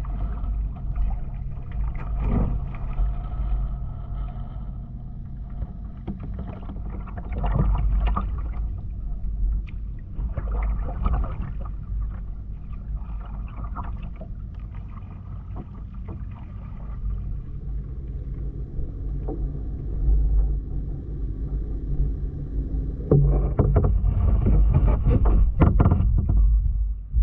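Kayak paddling: paddle strokes dipping and splashing in the water in irregular clusters, over a steady low rumble.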